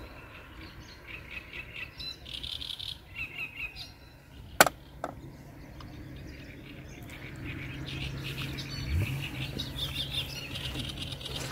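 Birds chirping in the background, with a single sharp click about four and a half seconds in and a low steady hum in the second half.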